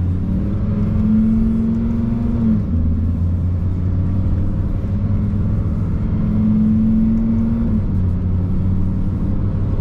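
Lamborghini Huracán's V10 engine pulling at low speed, heard inside the cabin. The note holds steady, drops in pitch about two and a half seconds in, climbs again and drops once more near eight seconds.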